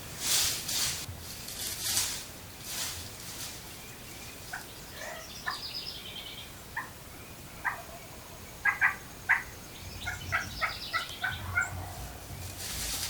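Turkey calls outdoors: after a few rustles at the start, series of short, sharp notes come in quick runs, the loudest about two-thirds of the way through.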